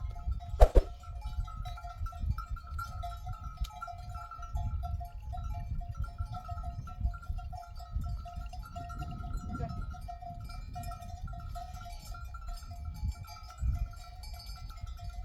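A flock of sheep bleating, their overlapping calls blending into a continuous wavering drone, over a low rumble.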